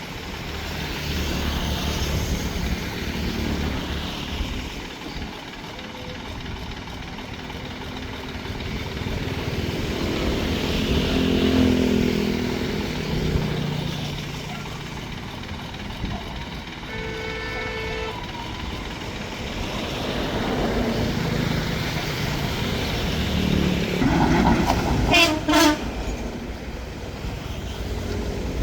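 Engine of a homemade mud suction boat running, its pitch rising and falling. A short pitched tone sounds a little past halfway, and a loud shrill squeal comes a few seconds before the end.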